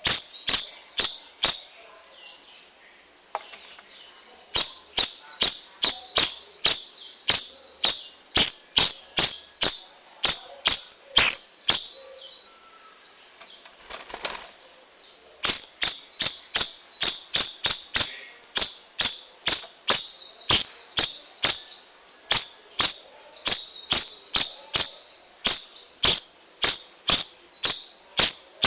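Cucak rawis songbird calling in a long run of sharp, high chips, about two a second, with two short pauses.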